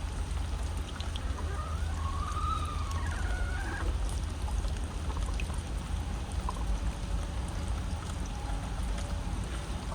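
Steady rain with water trickling and pouring, and a hen giving a few soft, wavering calls between about two and four seconds in.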